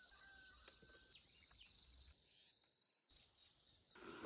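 Steady high-pitched insect chorus, with a quick run of short high chirps about a second in.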